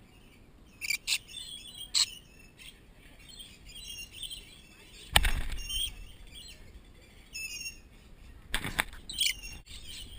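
Lorikeets squabbling: one bird screeching harshly at another in several sharp shrieks, the loudest about halfway through and a quick run of them near the end, over steady high chattering from the flock.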